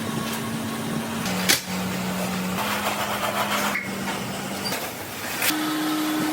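Tyre-retreading workshop machinery running with a steady hum that shifts pitch in steps, and two sharp metallic knocks, about a second and a half in and near the end.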